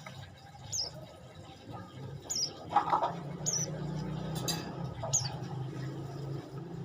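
Prenjak lumut (a small prinia songbird) calling: short, high, sharp chirps that drop in pitch, repeated roughly every second and a half, with a louder, lower call about three seconds in, over a low steady hum.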